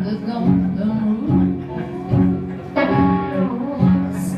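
Live blues band playing, with guitar to the fore over a steady, repeating low bass line.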